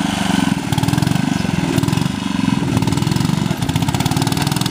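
Ariens lawn tractor's 8 hp single-cylinder Tecumseh engine running hard, its speed dipping and recovering several times.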